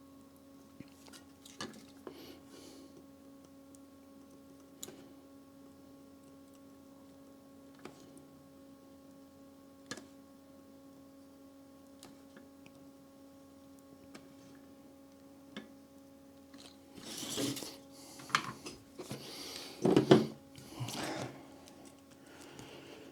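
Workbench sounds during soldering: a low steady hum with a few faint ticks, then a few seconds of rustling and clattering of small parts and tools being handled, with a sharp knock about twenty seconds in.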